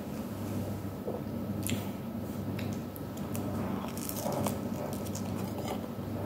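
A person biting and chewing food close to the microphone: wet, squishy mouth sounds with scattered short clicks and crackles, over a steady low hum.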